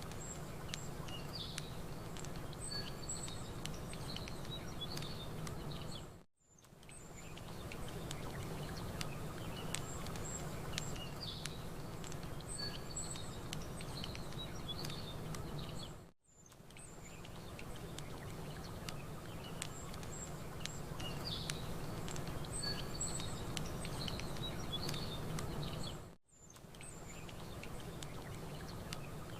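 Campfire crackling with small sharp pops over a low steady rumble, while small birds chirp and tweet. The same stretch of sound repeats, dropping briefly to near silence about every ten seconds.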